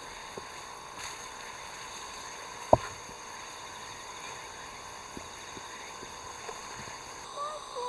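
A steady outdoor background with a few light clicks and one sharp knock about three seconds in. Near the end a cat starts meowing.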